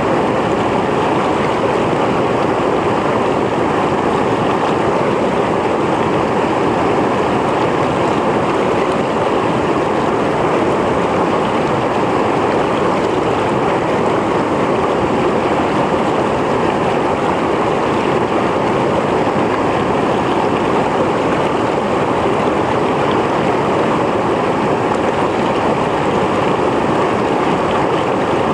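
Mountain stream flowing steadily, water rushing and splashing over rocks in an even, unbroken rush.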